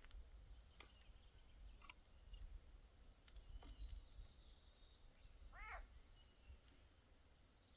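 Near silence: faint outdoor ambience with a low rumble and a few soft clicks. One short bird call sounds about three-quarters of the way through.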